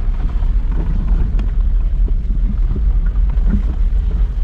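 Steady low rumble of a car on the move, with wind buffeting the phone's microphone.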